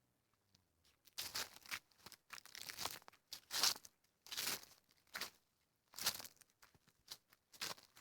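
Footsteps crunching on a woodland trail, a crunching step every half second or so, starting about a second in.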